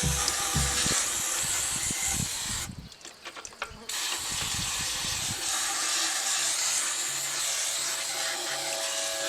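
Steady hissing spray as the differential housing is cleaned, cutting out for about a second roughly three seconds in.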